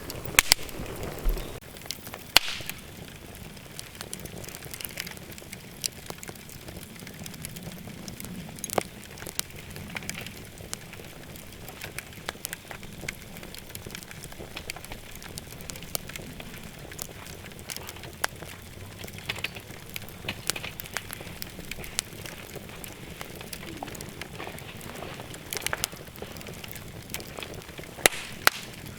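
Firewood burning in a fire pit, crackling steadily with frequent sharp pops, some louder ones near the start and near the end.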